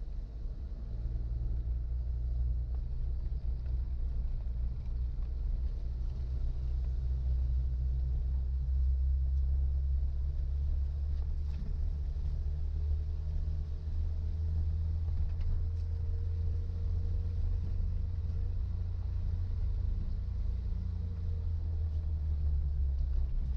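Suzuki Jimny driving at steady speed: a continuous low engine and road rumble.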